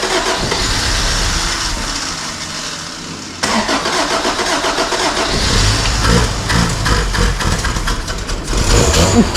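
The carbureted 1.5-litre four-cylinder engine of a 1983 Honda Civic being cranked by the starter, catching and running about halfway through.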